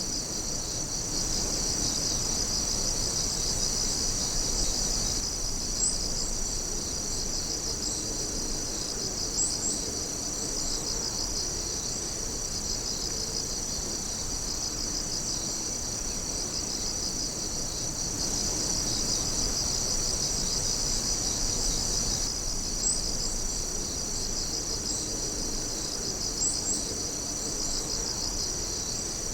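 A night chorus of many insects calling at once: steady, overlapping high trills with a fast pulsing chirp running through them. Now and then a brief higher chirp stands out.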